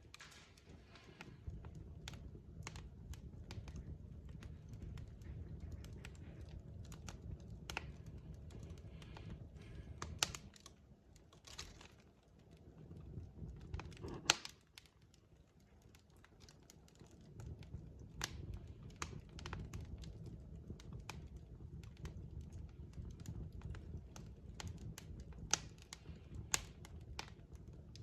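Wood fire burning: irregular sharp crackles and pops of burning logs over a low, steady rumble of flames, with one louder pop about fourteen seconds in.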